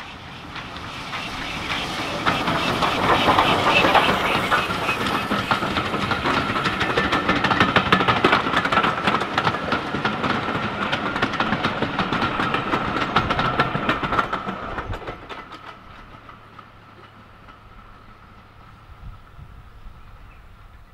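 Steam-hauled passenger train passing close by: the sound swells as the locomotive goes past, then the coaches' wheels click rapidly over the rail joints, and it fades away after about fifteen seconds.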